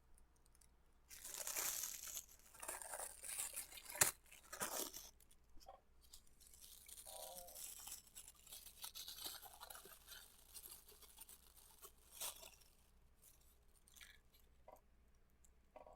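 Toy packaging being torn and crinkled open by hand, in irregular bursts, with a sharp click about four seconds in.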